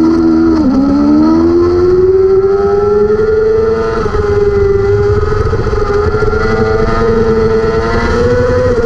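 600 cc supersport race motorcycle's engine at high revs over steady wind rush. The revs drop briefly just under a second in, then climb steadily, with a short dip in level about four seconds in.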